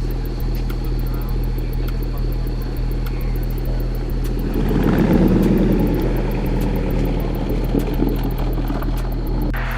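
Car engines running with a steady low rumble; about halfway through a louder exhaust rumble swells for a couple of seconds and then eases off.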